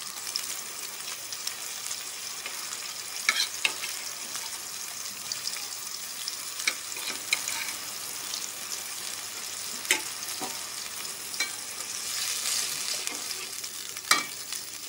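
Spice paste sizzling as it fries in hot oil with onions in a metal pot, a steady hiss with sharp clicks every few seconds. This is the first frying of the masala for a bhuna. Near the end a spatula stirs the paste.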